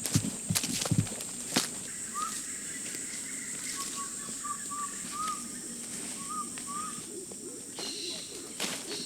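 Amazon rainforest ambience: a steady high-pitched insect drone, with a bird calling a series of short rising notes through the middle. A few sharp snaps or steps sound in the first second or so.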